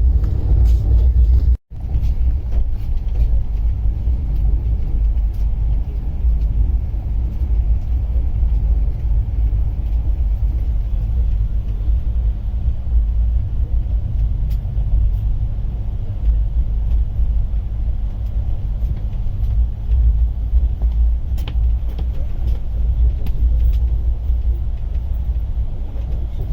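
Steady low rumble of a moving express train with a faint steady hum, cut off for a split second near the start.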